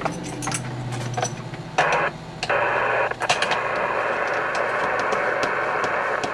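Icom IC-718 HF transceiver's speaker hissing with received band noise, static coming in once the radio is connected to an antenna. A low hum and a few clicks come first; the hiss starts about two seconds in, drops out briefly, then holds steady.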